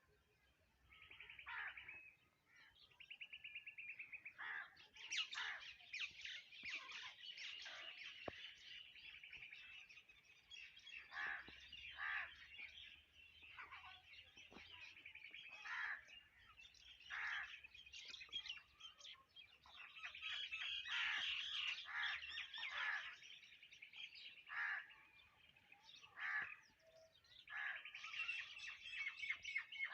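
Several wild birds chirping and calling, with overlapping short, high calls and rapid trills: one trill about a second in and another near the end.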